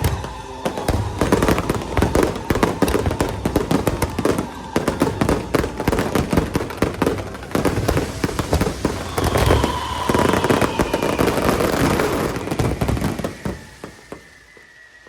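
Fireworks crackling in a dense, rapid barrage, with a whistling tone that slides slowly downward in the second half; the crackle dies away over the last couple of seconds.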